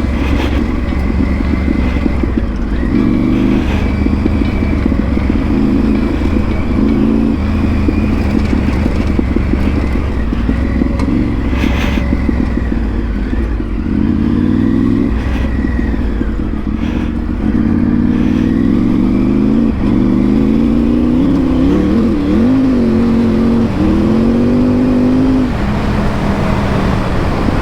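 Triumph Tiger 900 Rally Pro's three-cylinder engine running as the bike is ridden. Its pitch rises and drops back several times in the second half as the throttle is opened and eased off.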